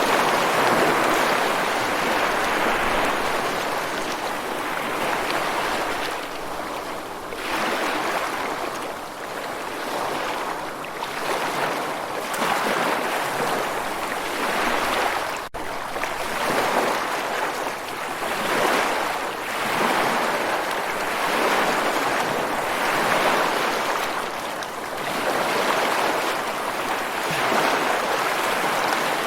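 Ocean surf washing in and out in slow swells every few seconds, with a momentary dropout about halfway through.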